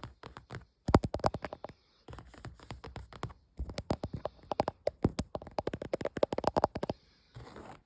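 Fast tapping on objects, about ten quick taps a second in several runs broken by short pauses.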